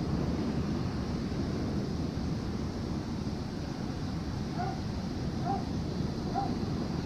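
Steady low rumble with wind noise on the microphone, and from about four and a half seconds in, four short barking animal calls about a second apart.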